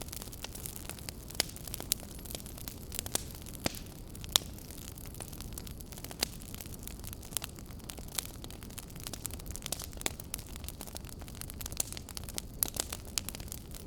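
Fire crackling: irregular sharp pops and snaps over a steady low rumble, with a few louder pops, the sharpest about four seconds in.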